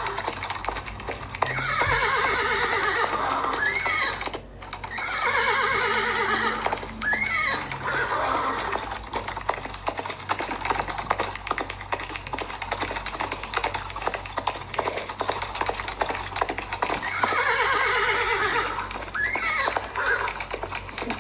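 A horse neighing three times, each a long whinny of about two and a half seconds that falls in pitch and ends in a short curling squeal, about two seconds in, about five seconds in and about seventeen seconds in. A dense patter of small clicks runs underneath.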